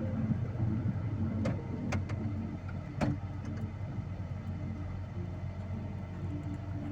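A vehicle engine running steadily under load, heard from inside the cab while driving through snow. A few sharp knocks or clicks come about a second and a half, two and three seconds in.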